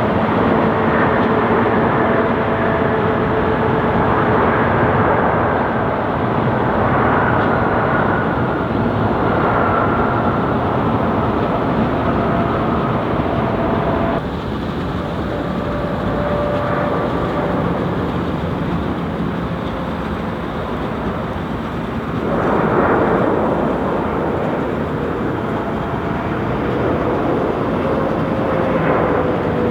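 Boeing 777 turbofan jet engines, loud and steady, with whining tones that slowly drift in pitch. The sound changes abruptly about halfway through and again about two-thirds in.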